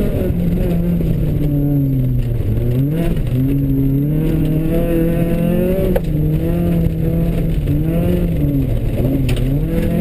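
Rally car engine under hard driving, heard from inside the cabin, its note dipping and climbing again several times through the corners, with a single sharp knock about six seconds in.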